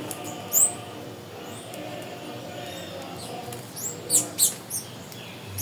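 Wild birds calling: sharp, very high-pitched chirps, one about half a second in and a quick run of four near the end, over a steady low background of natural ambience.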